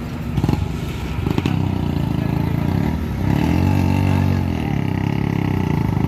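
Truck engine running, revving up and back down once in the middle, with a couple of sharp knocks early on.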